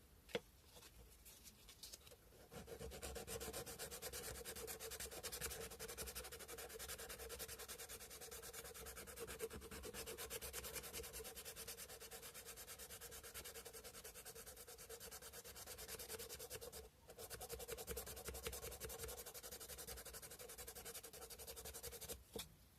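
Cow bone fish hook being sanded by hand with sandpaper: quick back-and-forth rubbing strokes, after a light tap and some faint scratching at the start. The rubbing stops briefly about two-thirds of the way through, resumes, and stops just before the end.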